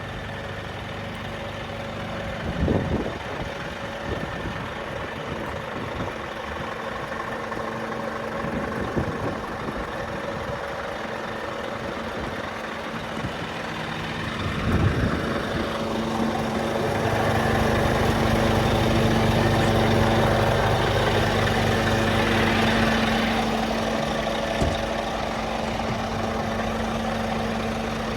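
Scania G480 truck's diesel engine idling, with a couple of short knocks. About halfway through, the sound grows louder and fuller for several seconds, then settles back.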